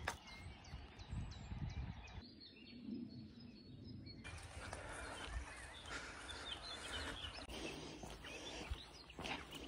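Faint songbirds chirping over outdoor background noise, with the background shifting abruptly about two and about four seconds in.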